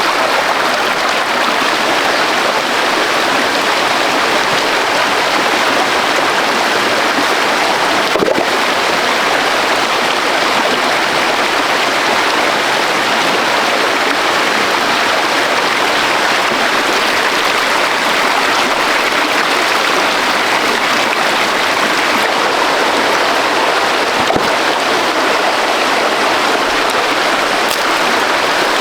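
Steady rush of fast-flowing water over rocks, from stream rapids or a waterfall, with one brief knock about eight seconds in.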